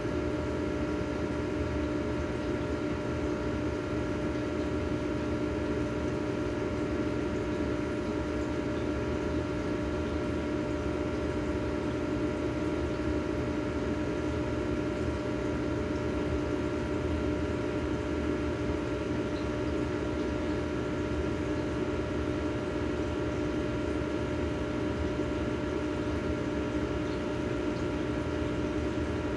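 Steady, unchanging hum of a small motor with a constant pitched tone.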